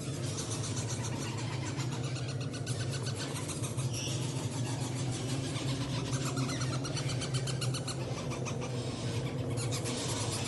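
Many parrot chicks begging for food with rapid, rasping calls that come and go, over a steady low hum.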